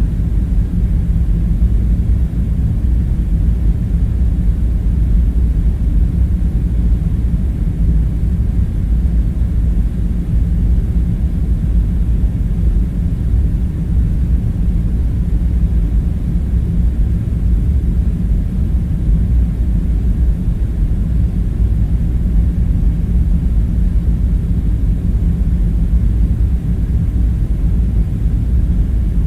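Steady low rumbling hum with no distinct events, a constant deep background drone.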